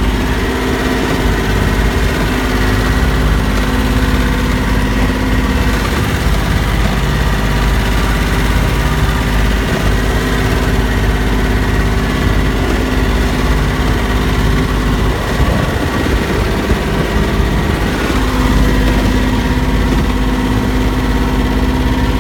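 Boat engine running at a steady pitch under a heavy low rumble, its note wavering briefly about two-thirds of the way in before settling again.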